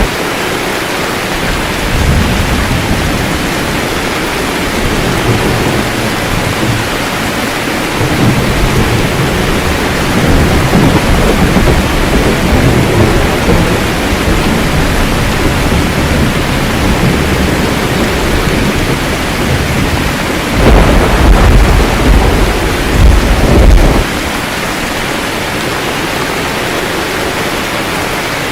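Steady heavy rain with rolling thunder: low rumbles swell and fade through the middle, the loudest peal coming about three-quarters of the way through and cutting off, leaving only the rain.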